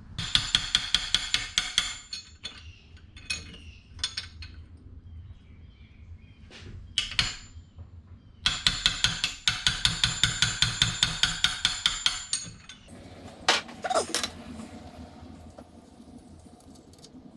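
Socket ratchet clicking in two quick runs of about seven clicks a second while jet ski spark plugs are backed out, with loose metal clinks of the socket and tools in between and near the end.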